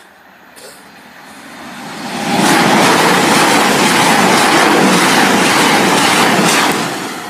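A CrossCountry Voyager diesel multiple unit passing at speed close by: its noise grows over the first couple of seconds, holds as a loud, even rush of wheels and engines for about four seconds, then drops away near the end.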